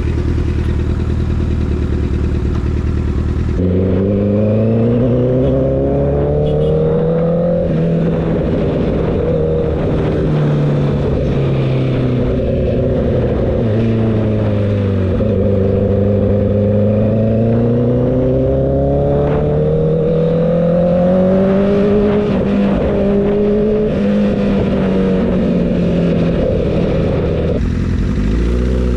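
Motorcycle engine running under way, its pitch steady at first, then rising and falling slowly over several seconds as the throttle opens and closes, steadying again near the end.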